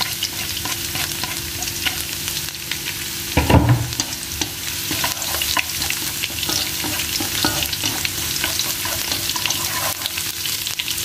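Minced garlic sizzling and crackling in hot oil in a wok while being stirred, with one dull knock about three and a half seconds in.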